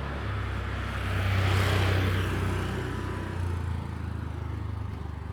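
A motor vehicle passing close by: a low engine hum with a rushing hiss that swells about one and a half seconds in and then fades away.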